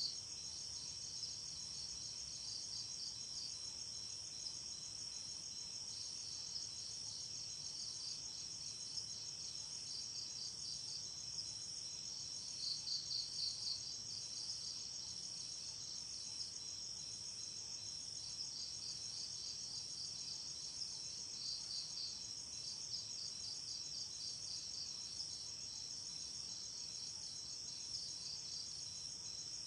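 Night insects, crickets, chirring in a steady high chorus, with one louder pulsed trill coming in short bouts, most strongly about halfway through.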